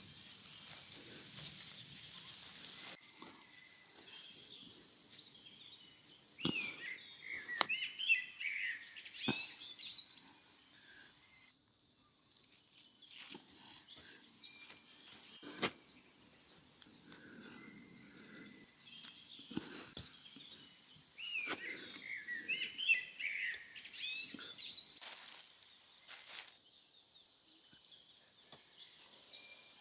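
Birds chirping in two spells, with a few sharp single knocks now and then.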